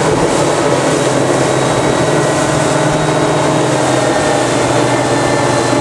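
60 hp outboard motor running steadily at an even pitch.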